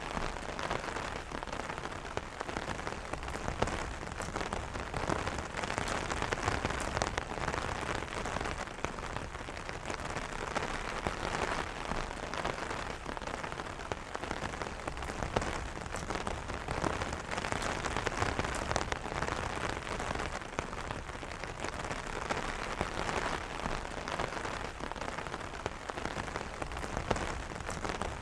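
Steady rain falling on an umbrella, a dense patter of many small drop ticks over an even hiss.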